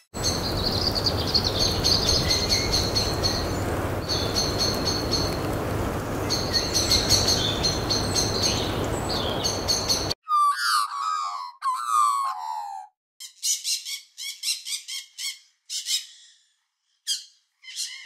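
Birds calling over a steady background hiss: a repeated high chirping phrase. About ten seconds in, the hiss cuts off suddenly and the calls come clear on silence: a few falling whistled notes, then runs of short high chirps.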